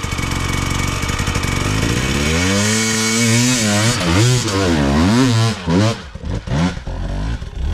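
KTM 500 EXC-F dirt bike's single-cylinder four-stroke engine revving hard, its pitch climbing and falling several times in quick succession, then dropping off about six seconds in, followed by a few short blips of the throttle.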